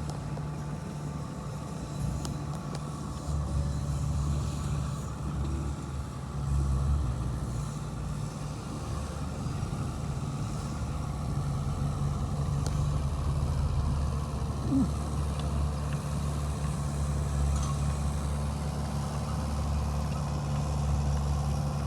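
Heavy earthmoving machine's diesel engine running with a steady low drone, its level swelling and easing slightly.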